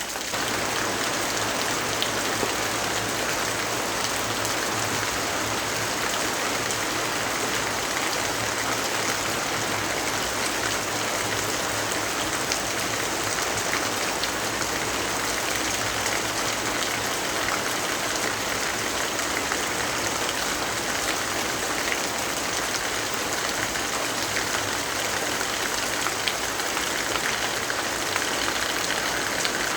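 Steady rainfall, a dense even hiss of rain that neither builds nor eases.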